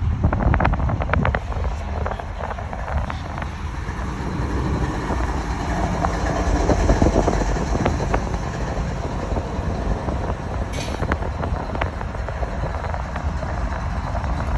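Train cars rolling on the rails: a steady low rumble with sharp knocks and clanks, thickest in the first couple of seconds.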